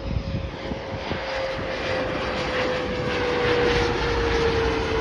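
Regional jet on approach to land: a steady jet engine whine with one tone slowly falling in pitch, growing louder over the first few seconds and then holding.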